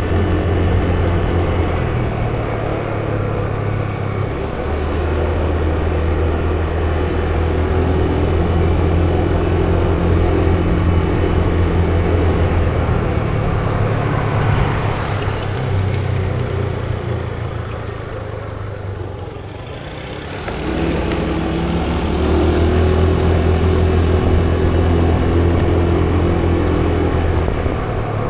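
Motor vehicle engine running under way with a steady low hum and road and wind noise. The pitch steps up and down a few times. It eases off and quietens around nineteen seconds in, then picks up again about two seconds later.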